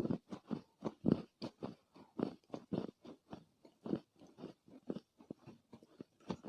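Chunks of soft Chinese loess crunching and crumbling, a close-up run of many short, irregular crunches at roughly two to three a second.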